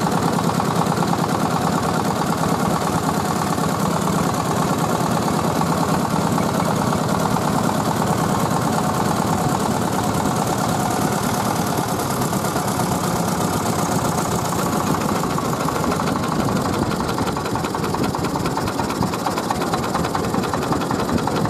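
The Tiger 24 PK diesel engine of a three-wheeled mobile rice mill running steadily in a fast, even chug.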